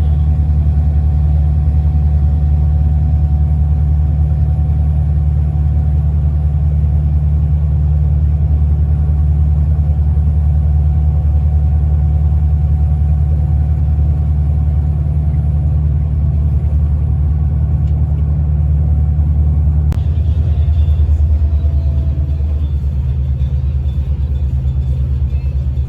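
Tour boat's engine running steadily under way, a loud low drone whose note shifts slightly about twenty seconds in.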